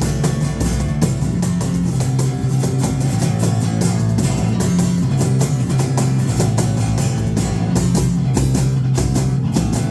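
Live rock band playing an instrumental passage: guitars, bass and a drum kit, with no singing.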